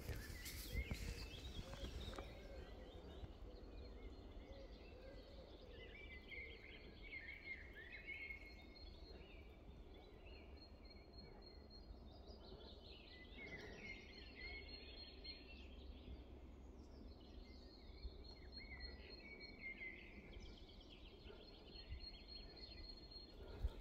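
Faint forest birdsong: many short chirps and warbling phrases going on throughout, over a low steady rumble.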